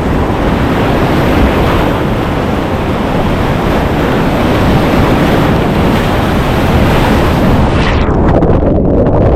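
Loud rushing whitewater of a steep mountain creek, with wind buffeting the microphone. About eight seconds in the hiss cuts off and the sound turns dull and muffled.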